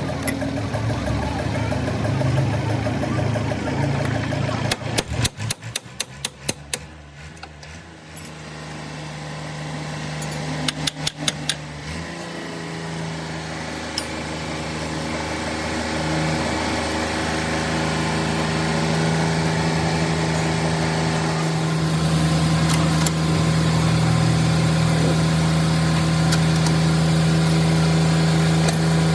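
A motor or engine running steadily, growing louder through the second half. Two short bursts of rapid metallic knocks come about five and ten seconds in.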